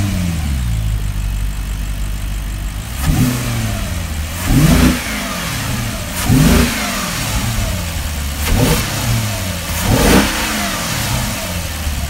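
A 2013 Maserati GranTurismo Sport's 4.7-litre V8 idling, blipped five times; each rev rises quickly and falls back to idle.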